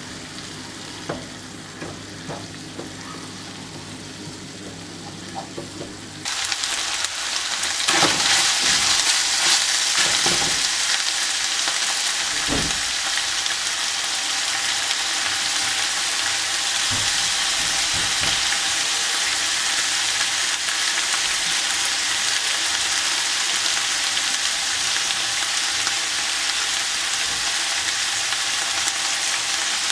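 Food frying in hot oil, sizzling steadily. Before that there are a few light clicks. About six seconds in, the sizzle starts suddenly and loud, with a few knocks soon after.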